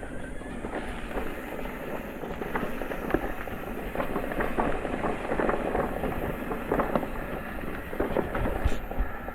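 Mountain bike rattling and clattering over rough ground: a dense run of small knocks and crackles.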